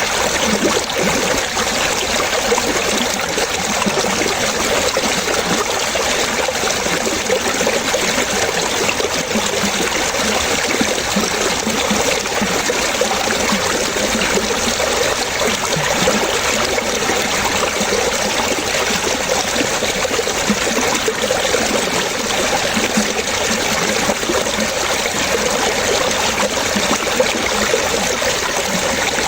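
Water trickling and splashing like a small stream, steady and unbroken, with a constant patter of small splashes.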